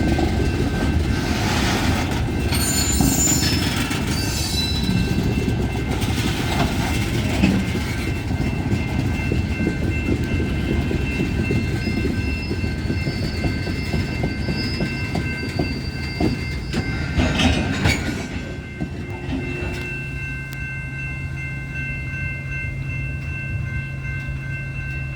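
Freight train of garbage cars rolling past, the wheels clicking over rail joints with a few brief high-pitched wheel squeals. About 18 seconds in the rolling noise falls away, leaving a steady low hum.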